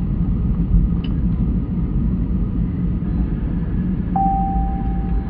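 Airliner cabin noise after landing: a steady low rumble of the engines and the aircraft rolling on the runway or taxiway. About four seconds in, a thin steady tone joins it and holds.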